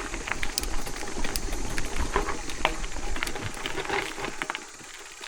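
Irregular mechanical clicks and rattles from an electric mountain bike, over a low rumble, quieting about four and a half seconds in.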